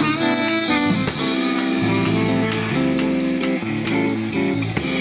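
Live band music led by guitar, with strummed and plucked notes over a bass line.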